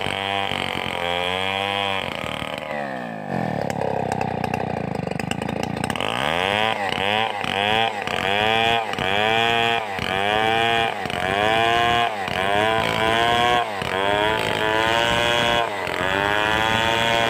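Stihl 038 two-stroke chainsaw running at full throttle while ripping a hard coconut trunk lengthwise into a beam. The engine pitch drops sharply a couple of seconds in and climbs back, then dips and recovers about once a second as the cut loads it.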